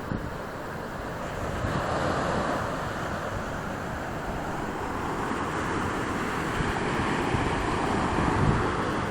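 Ocean surf: waves breaking and washing in, swelling about two seconds in and again late on, with wind buffeting the phone's microphone.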